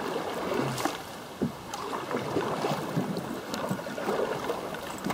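River water splashing and gurgling around a moving canoe, with a few light knocks.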